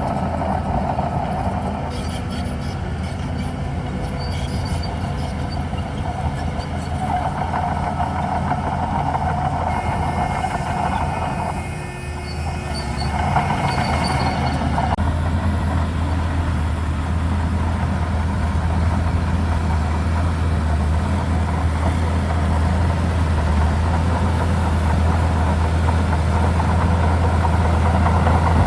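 Crawler bulldozer working: a steady low diesel drone with track clatter, and short high squeaks in the first half. The engine note dips briefly about twelve seconds in, then comes back stronger and holds.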